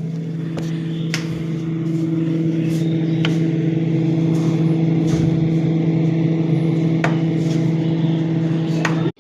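Electric motor running with a steady, loud hum, then switched off abruptly near the end.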